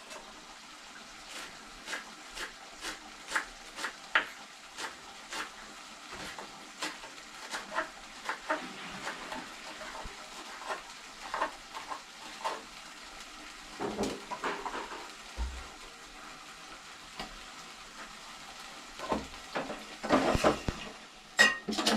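Spoon scraping and knocking against a cooking pot, about two strokes a second, while stirring thick chicken curry that is sticking to the bottom, over a faint steady sizzle. The knocking gets busier and louder near the end.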